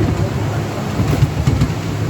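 Miniature railway train running along its track, heard from on board: a steady low rumble of the wheels on the rails with faint clicks.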